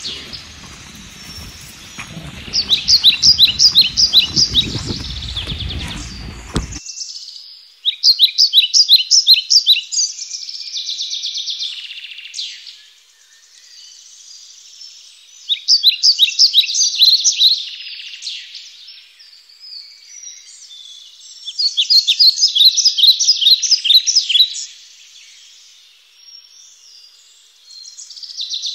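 Songbirds singing: loud phrases of rapid repeated high notes come about every six seconds, four times, with softer chirping between them. A low rumble underneath stops abruptly about seven seconds in.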